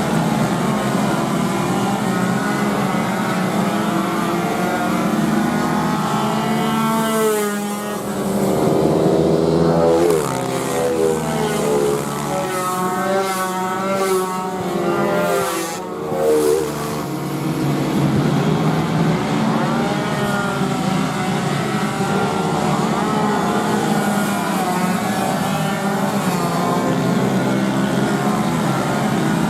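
Small racing motorcycle engines running hard through the gears, with other bikes passing about seven seconds in and again between about twelve and seventeen seconds, their engine notes sweeping up and down in pitch.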